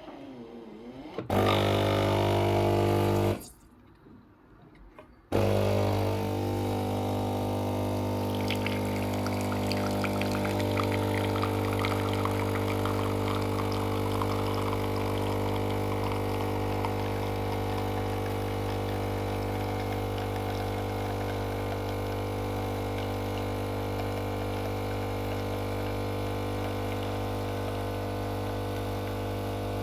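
Philips coffee machine's pump humming steadily while it brews. It runs for about two seconds, stops for about two, then starts again and runs on, with liquid crackling and pouring for a while after the restart.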